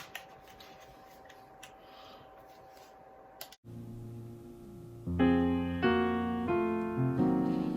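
A faint low hush, then about five seconds in a keyboard piano starts playing sustained chords, changing about every second or less: the piano introduction of a live song.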